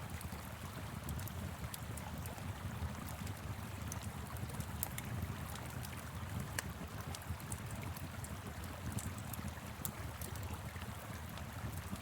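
Wood fire crackling, with many small, irregular pops, over the steady low rush of a flowing river.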